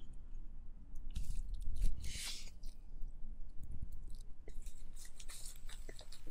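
Close-miked chewing of a mouthful of rice with pork, soft wet mouth sounds and small clicks, loudest about two seconds in.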